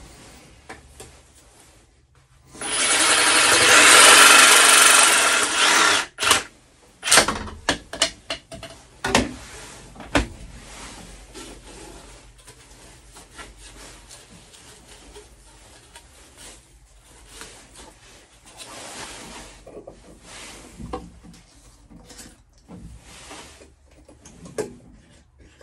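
Hand and power tool work on well-house plumbing: a loud, continuous cutting or grinding noise for about three and a half seconds, then a run of sharp clicks and knocks, then quieter scraping and rubbing.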